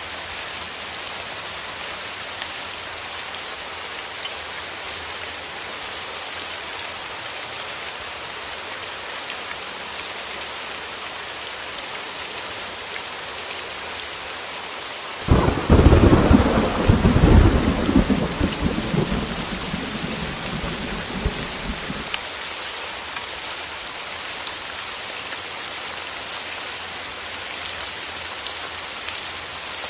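Heavy rain falling steadily, with a thunderclap about halfway through: a sudden loud crack that rumbles on for several seconds and fades.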